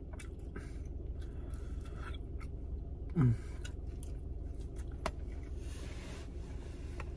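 Quiet chewing of a mouthful of rice and fried egg, with a few light clicks of a metal spoon against a plastic tub, over a steady low hum inside a car. About three seconds in there is a short, low vocal sound that falls in pitch.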